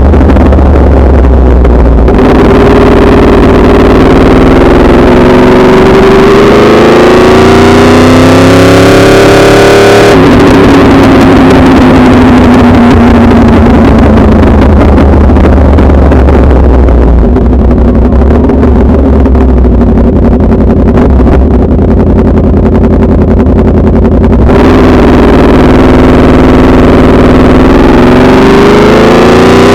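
Yamaha R1 inline-four engine under load on the road, its pitch climbing for several seconds as it accelerates. About ten seconds in it changes abruptly and the pitch falls away. It then runs lower and steadier for a stretch before climbing again near the end, loud throughout.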